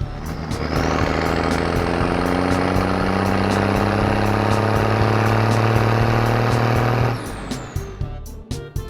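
A steady mechanical drone, like a machine or engine running, starts about a second in and cuts off suddenly about seven seconds in. It plays over background music with a regular ticking beat.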